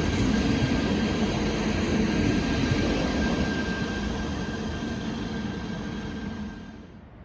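Train running through the station: a steady rumble with a thin steady whine above it, fading away over the last few seconds and cutting off near the end.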